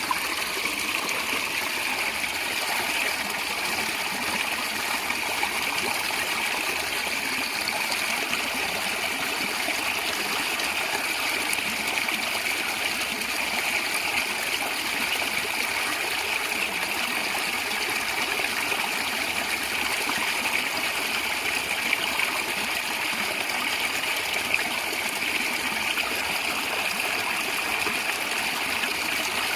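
Natural stream water flowing and gurgling steadily, an even rushing babble with no breaks.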